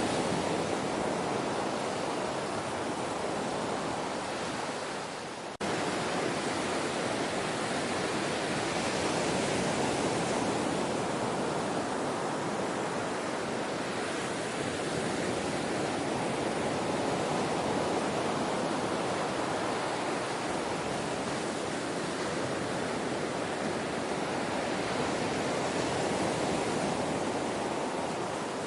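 Ocean surf washing steadily, a dense, even rush of water noise. About five and a half seconds in, it sags slightly and then cuts back in abruptly at full level, an edit in the recording.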